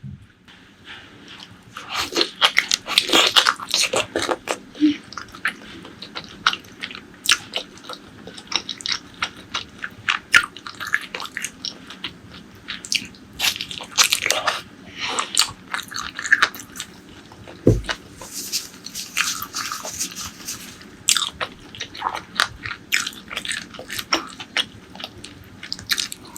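Close-miked eating of spicy pork leg curry and rice: wet chewing, biting and smacking, with irregular crunchy clicks. It starts softly and grows busier about two seconds in.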